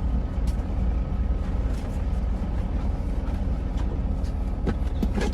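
Dump truck running with a steady low engine rumble, with a couple of short clicks near the end.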